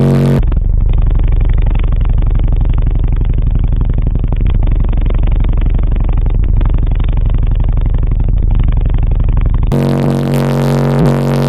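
Very loud, deep bass from a car audio system, with rapid fine pulsing in the lows. It cuts in about half a second in, replacing the music, and gives way to music again near the end.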